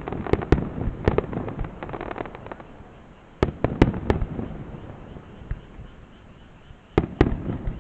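Fireworks shells bursting: clusters of sharp bangs, one volley at the start, another about three and a half seconds in and another near the end, with crackling and a rumbling tail between them.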